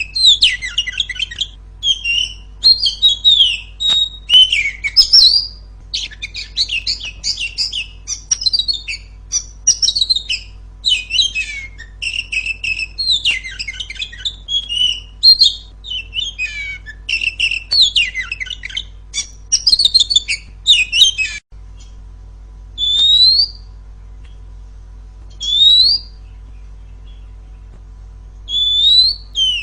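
Female Oriental magpie-robin (kacer) singing loudly: a fast, varied run of chirps, trills and whistles, then, about two-thirds of the way through, a few single rising whistles a couple of seconds apart. This is the kind of female song used as a training recording to set silent male magpie-robins singing.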